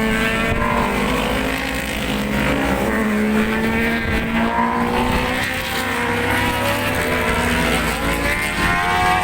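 Several 1000cc superbike engines running together at moderate, fairly steady revs, with wind buffeting the microphone.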